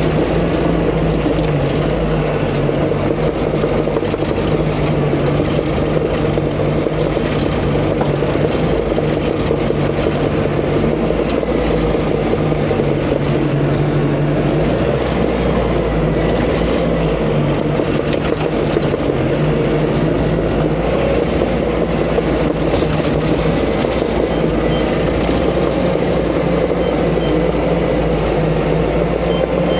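Diesel engine of a heavy earthmoving machine running steadily at working speed, a loud even drone with no letup.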